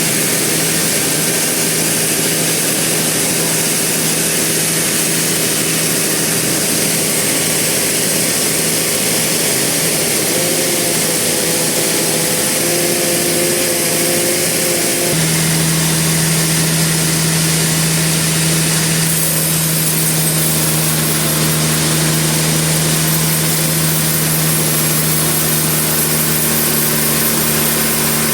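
Sawmill machinery running steadily, a continuous engine drone that grows stronger about halfway through.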